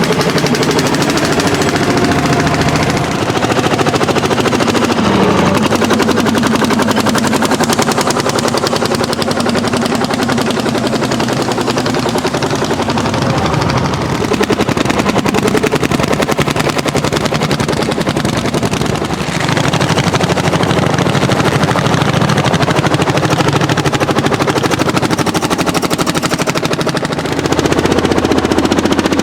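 Landini L55 single-cylinder two-stroke hot-bulb diesel engine working hard under ploughing load, its exhaust firing as a rapid, steady stream of loud pops. The engine note shifts abruptly about two-thirds of the way through and again near the end.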